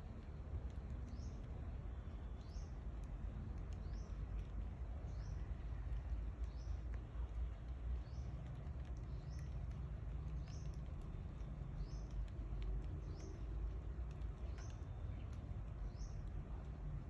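A bird's short, high, upward-sliding chirp, repeated at a steady pace about every second and a half, over a constant low rumble.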